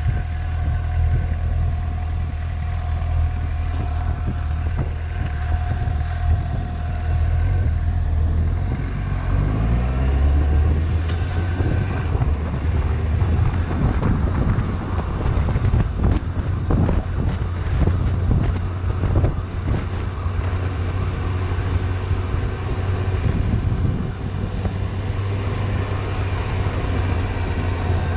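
Suzuki GSX-S750's inline-four engine running at low road speed, with wind noise on the microphone. The engine note climbs once, about nine to eleven seconds in, then stays low and uneven.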